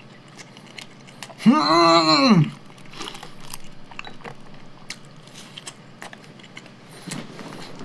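A man chewing buttered kaya toast, with soft wet clicking mouth sounds. About a second and a half in, he lets out a long wordless exclamation of enjoyment that rises and then falls in pitch, and he makes a shorter, fainter one near the end.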